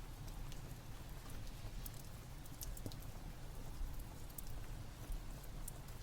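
Steady rain with a low rumble beneath, and a fireplace crackling in scattered sharp pops throughout.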